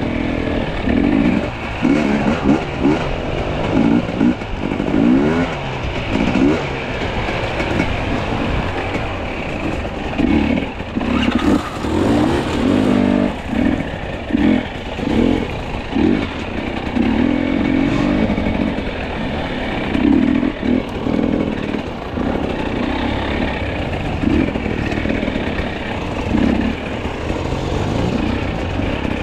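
Two-stroke enduro dirt bike engine being ridden, revving up and down in short repeated bursts of throttle.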